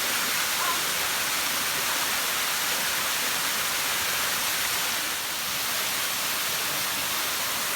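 Small waterfall and stream: water rushing with a steady, even hiss.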